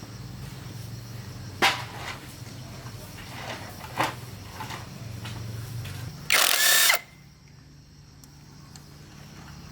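Electric power tool motor running steadily, with a few sharp clicks of metal. A loud hissing burst lasts under a second, and then the motor stops.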